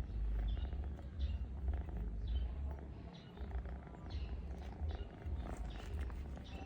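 A domestic cat purring: a low rumble that swells and eases in a slow rhythm, with faint short high chirps over it.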